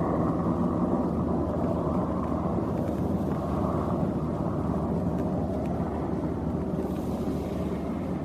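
Steady engine drone of a passing Coast Guard craft: a continuous low hum with a dense rumble underneath, with some wind on the microphone.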